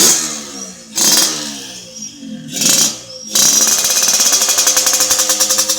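Yamaha RX-King two-stroke single-cylinder motorcycle engine, breathing through a galvanized racing under-belly exhaust. It fires in three short bursts, each falling away in pitch, then a little past halfway settles into a steady run with a rapid, even popping pulse.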